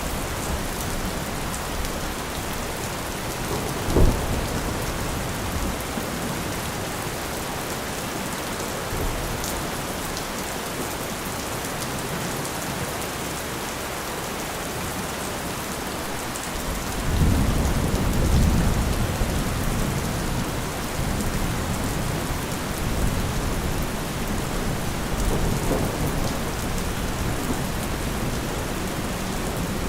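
Steady heavy rain with low thunder. There is a brief sharp knock about four seconds in, and a deep rumble rolls in a little past halfway, swells for a few seconds and then fades back under the rain.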